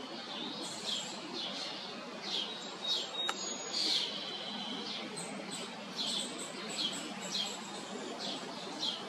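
Downy woodpecker chicks calling: short, high calls repeated about twice a second over a steady background hiss, with a single sharp click about three seconds in.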